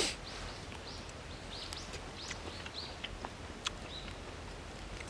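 Small birds chirping in short arched notes over a steady outdoor hiss, with scattered sharp clicks and a brief noisy rush right at the start.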